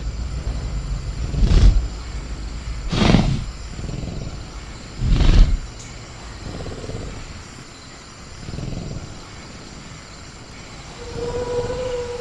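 Velociraptor sound effect: three loud, short, rough roars about a second and a half apart, over a low rumble. Near the end a wavering call holds at one pitch.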